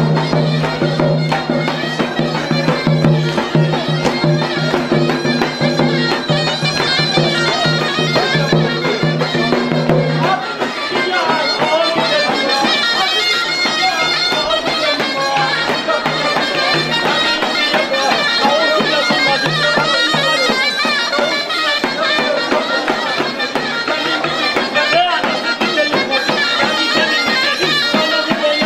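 Folk music played on a bagpipe: a busy, ornamented melody over a steady low drone, the drone strong for about the first ten seconds and then softer.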